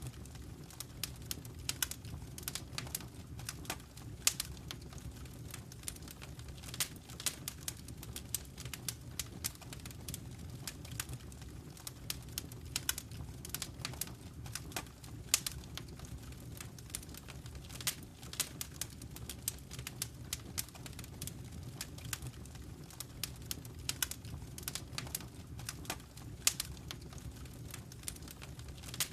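Wood fire in a fireplace crackling, with many irregular sharp pops and snaps over a steady low rumble of burning.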